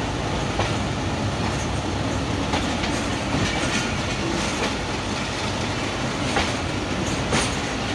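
Moving passenger train heard from a coach window: a steady rumble and rush of wheels on the track, with sharp clicks at uneven intervals as the wheels cross rail joints.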